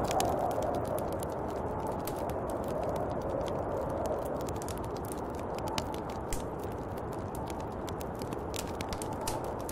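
Snowstorm wind blowing steadily, swelling and easing in slow gusts, with many scattered sharp ticks and clicks over it.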